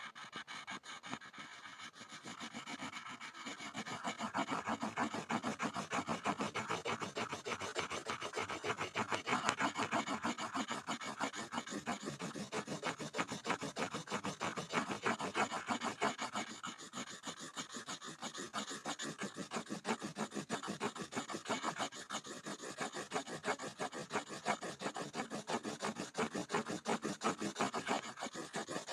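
Pencil scribbling on a board: quick back-and-forth scratching strokes that grow louder about four seconds in.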